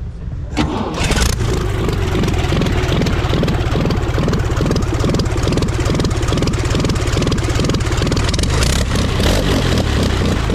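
Curtiss OX6 aero V8 in a 1911 Krit racing car firing up about half a second in, then running steadily with an even beat through short stub exhausts. Being low compression, it is not loud for a 100 horsepower V8.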